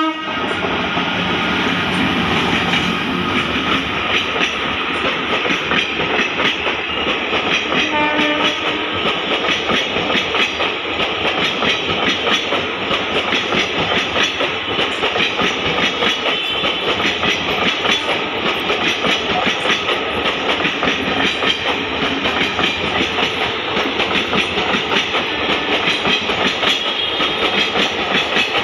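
Indian Railways express train rolling past close by, its coaches' wheels clattering in a fast, steady rhythm over the rail joints. A short horn-like tone sounds about eight seconds in.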